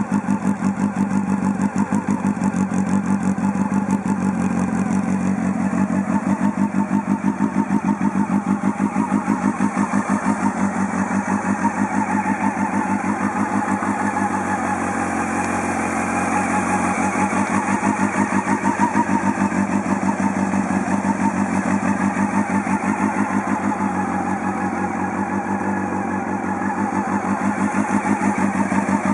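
Honda CB400SF's inline-four engine idling steadily through a Yoshimura titanium slip-on muffler, with a rapid, even exhaust pulse.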